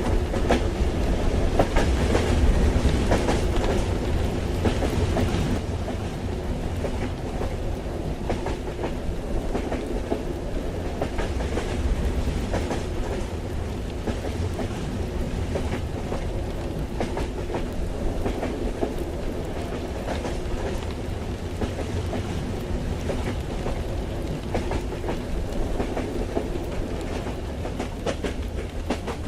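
Train running on the tracks, heard from inside the carriage: a steady low rumble of wheels with rail clatter, a little louder over the first few seconds.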